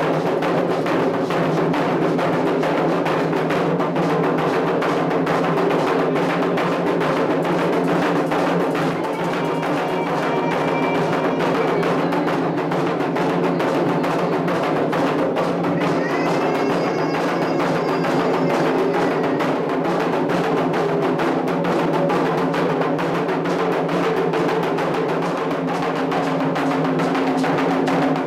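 Candomblé ceremonial drumming on atabaque hand drums, steady and continuous with dense, rapid strokes throughout.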